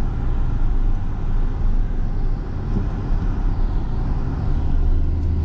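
Car engine and road noise heard from inside the cabin while driving: a steady low hum and rumble, with the engine note growing stronger about four and a half seconds in.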